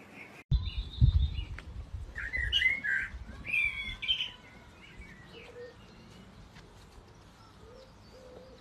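Birds chirping: a cluster of quick, high, gliding calls, then fainter scattered calls, over a low rumble on the microphone.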